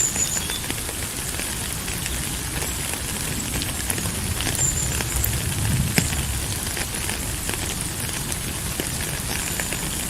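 Steady rain falling, with many small crackling drop impacts and a low rumble that swells and fades around the middle.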